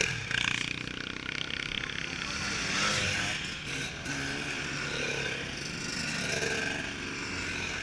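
Dirt bike engines running, their pitch rising and falling as they rev.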